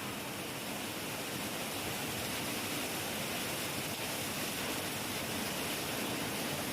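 Heavy rain falling steadily, an even hiss with no thunderclap.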